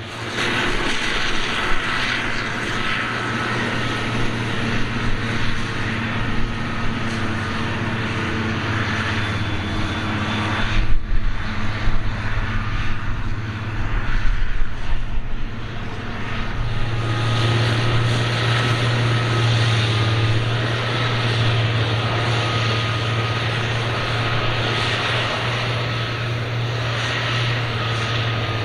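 Claas Jaguar 870 forage harvester running under load, a steady engine drone with a thin high whine above it. It grows louder and more uneven for a few seconds around the middle.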